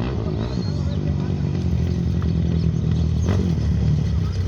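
Off-road race motorcycle engine approaching, growing steadily louder.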